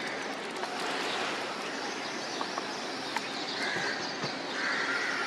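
Outdoor ambience with birds calling in the background: a steady hiss of background noise, with short calls about three and a half and four and a half seconds in, and a few faint ticks. A sharp click comes at the very end.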